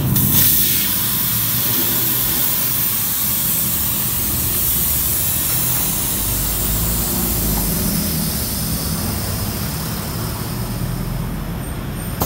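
Compressed air hissing in a short loud burst right at the start, then a steady low mechanical hum under a lighter hiss.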